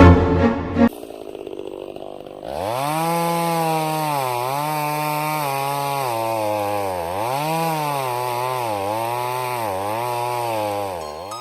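Chainsaw sound effect: a two-stroke saw engine starts about two and a half seconds in and is revved up and down again and again, its pitch dipping and climbing, until it cuts off near the end. Music plays briefly at the start.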